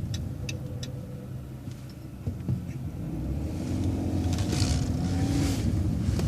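Vehicle engine idling at a stop, with a few sharp ticks in the first second, then pulling away with a rising engine tone from about halfway through as it makes the turn.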